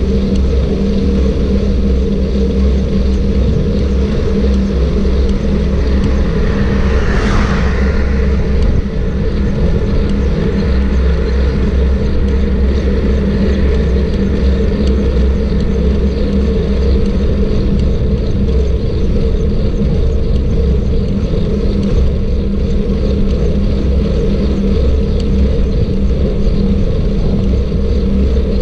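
Motorcycle engine running steadily at an even cruising speed, with a brief swell of hissing noise about seven seconds in.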